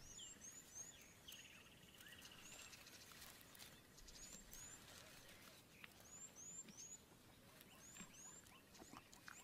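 Faint outdoor ambience with small birds giving scattered short, high chirps and a brief trill about a second in.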